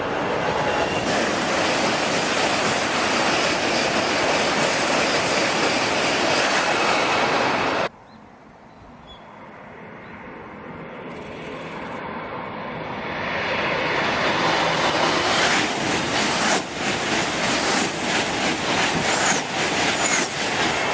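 A Shinkansen train running past with a loud steady rush that cuts off abruptly about eight seconds in. Then another Shinkansen train approaches, growing louder, and passes with a rapid clatter of wheels over the rails and a few brief high wheel squeals near the end.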